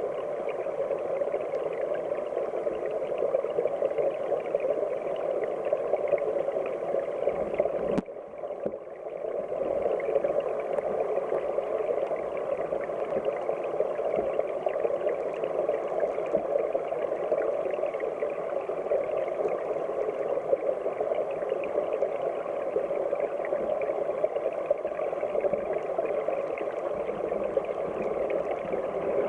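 Headwater mountain stream flowing and gurgling steadily, a dull, muffled rush with little hiss. About eight seconds in, the sound cuts briefly quieter, then the flow resumes.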